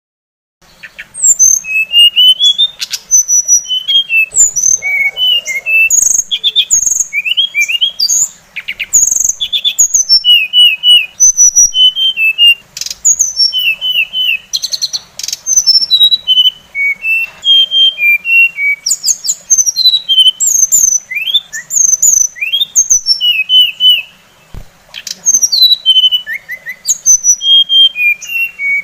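A songbird singing a fast, varied song of short chirps, slurred notes and trills, almost without pause, starting about half a second in.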